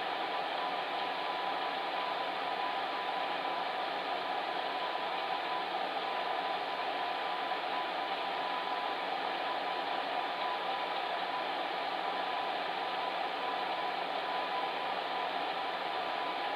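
Electric fan heater running steadily: an even rush of blown air with a faint steady hum from its motor.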